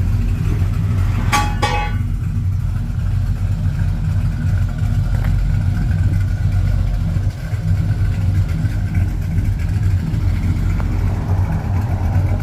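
A truck's engine running with a steady, deep exhaust rumble through its freshly redone muffler work. About a second and a half in there is one brief high-pitched sound.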